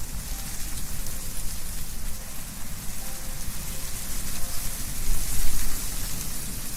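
Wind blowing through trees, leaves rustling in a steady hiss over a low rumble of wind, swelling in a stronger gust near the end.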